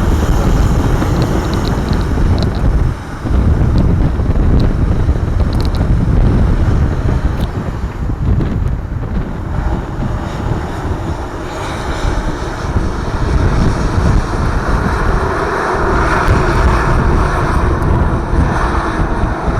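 Strong wind buffeting the microphone, over the steady rumble of an aircraft's engines.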